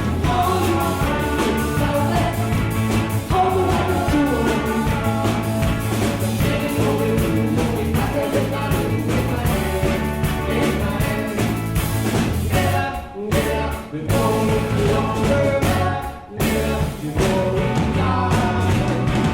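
Live rock band with accordion, electric guitar, bass and drums playing a driving tune. The band cuts out briefly twice, about two-thirds of the way through and again a few seconds later.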